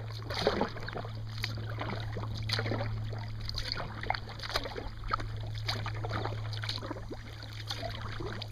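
Kayak paddle blades dipping and pulling through river water, about one stroke a second, over a steady low hum.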